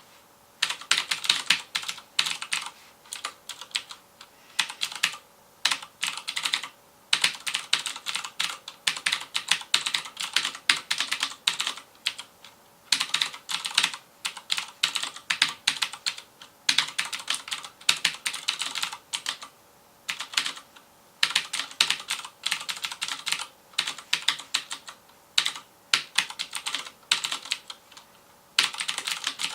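Fast typing on a FILCO Majestouch Convertible 2 mechanical keyboard with Cherry MX Blue switches, each keystroke a sharp click. The keystrokes come in quick runs of one to two seconds with short pauses between them.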